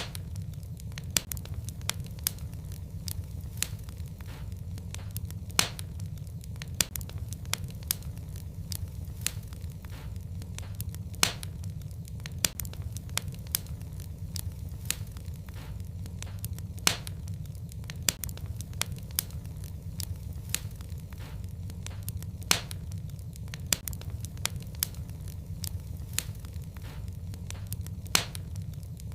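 Wood fire burning in a fireplace: a steady low rumble of flames with irregular crackles and pops, a few of them much sharper and louder than the rest.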